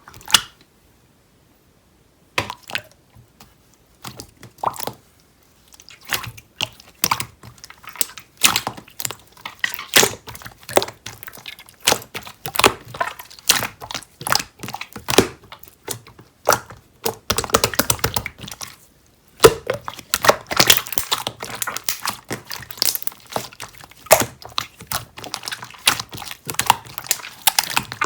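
Rapid, irregular clicking and crackling from something being handled close to the microphone. It is sparse for the first few seconds, then almost continuous, with one short break past the middle.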